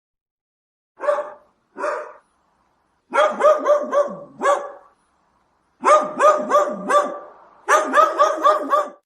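Dog barking: two single barks, then three runs of quick barks at about three a second.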